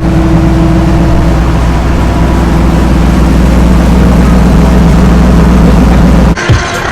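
Turbocharged 4.4-litre V8 of a BMW E30 drift car idling loudly and steadily, breaking off abruptly near the end.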